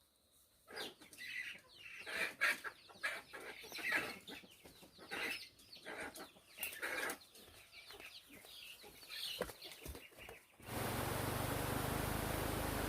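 Chickens clucking in short, irregular calls. About ten seconds in, the sound cuts abruptly to a steady hiss with a low hum.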